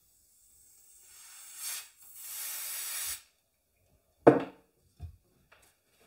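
Two hissing sprays from an aerosol can with a straw nozzle aimed into a laptop keyboard, the first swelling over about a second, the second held steady for about a second. About four seconds in comes a sharp thump, the loudest sound, followed by a couple of light knocks.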